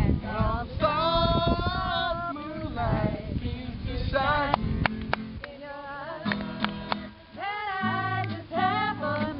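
Group of men and women singing together to a strummed guitar, with some long held notes.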